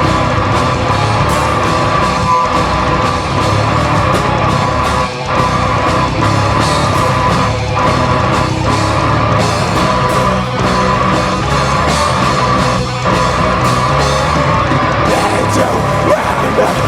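Live heavy rock band playing loud and dense, with distorted guitars, bass and drums.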